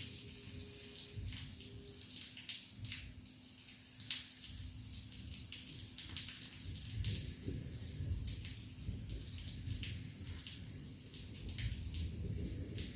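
Rain falling, with many single drops striking close by as sharp ticks over a low, uneven rumble.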